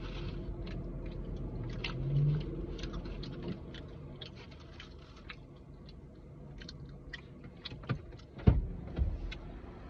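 A person chewing and biting food close to the microphone, wet mouth clicks scattered throughout, over a low steady hum that fades out about a third of the way in. Two sharp knocks near the end.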